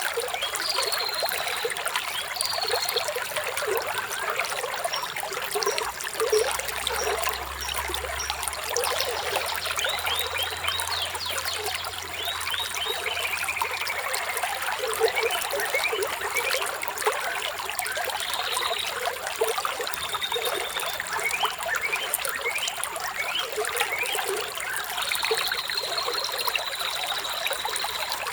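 Shallow stream trickling and splashing steadily, with birds chirping throughout: short whistled calls and a few quick falling trills.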